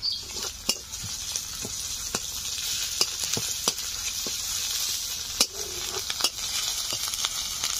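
Onions and freshly added ginger paste sizzling in hot oil in a kadai, with the stirring utensil clicking and scraping against the pan at uneven intervals as they are stirred.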